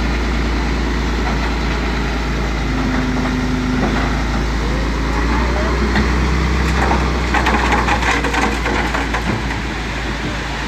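Heavy diesel earthmoving machinery, a bulldozer working with a dump truck, running steadily with a deep engine drone, and a burst of metallic rattling and clanking about seven seconds in.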